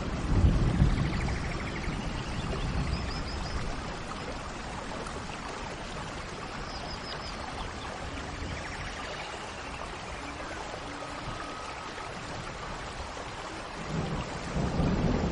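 Steady rain hiss with birds calling now and then in short high chirps and trills. A low rumble sounds at the start and again near the end.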